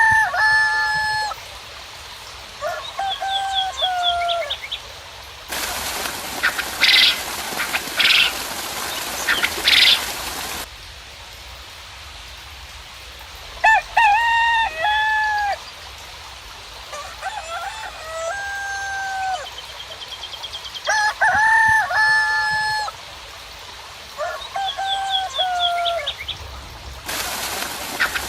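Roosters crowing again and again, each crow a pitched call of about a second, with small birds chirping high above. For about five seconds in the middle a loud hiss comes in abruptly, carrying three harsh calls, and the same hiss starts again near the end.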